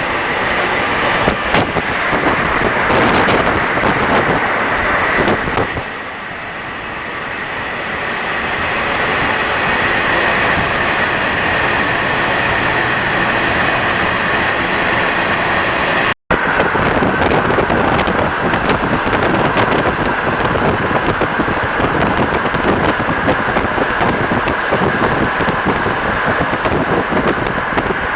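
Rubber-tyred NS-74 metro train running, a steady rolling rumble with a high whine over it. The sound eases briefly about six seconds in and builds up again, and it cuts out for an instant about sixteen seconds in.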